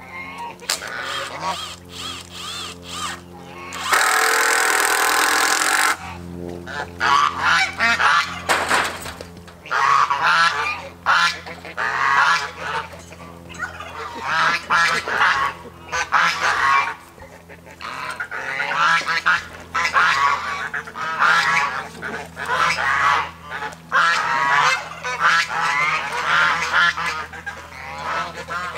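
Domestic geese honking repeatedly in short calls. A loud, even burst of noise lasts about two seconds, about four seconds in.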